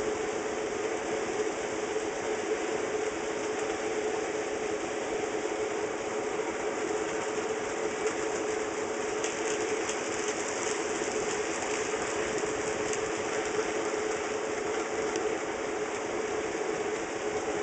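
HO scale model trains running on DC power, giving a steady hum of small electric motors and gearing. Faint clicks of wheels passing over the track come through about halfway in.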